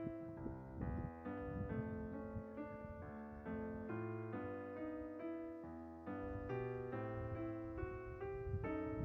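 Background piano music: a steady run of notes, one after another.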